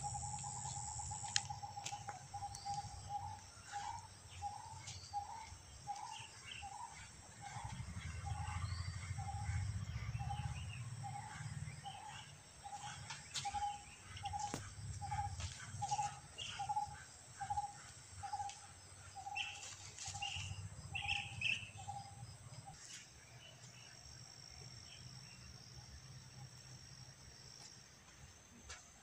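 A bird calling a single short low note over and over, about twice a second, that starts as a quick trill and stops about three quarters of the way through. Behind it is a steady high insect drone.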